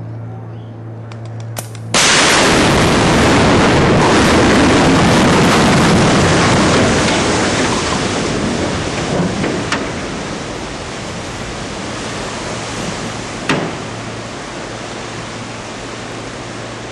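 Explosive demolition of a steel river bridge: a few small sharp cracks, then about two seconds in a sudden loud blast that turns into several seconds of heavy rumbling noise, slowly fading. Two more sharp cracks follow later. A steady low hum is heard before the blast.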